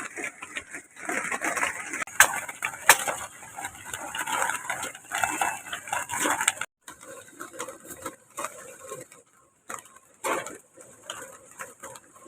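Clattering and clinking of cooking pots, dishes and utensils, with two sharp clinks about two and three seconds in, then quieter after the middle.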